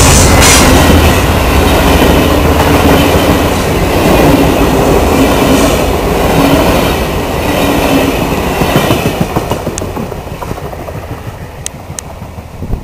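VIA Rail passenger train passing close by, loud, its wheels rumbling and clattering on the rails. About nine seconds in the sound starts to fade as the train moves away.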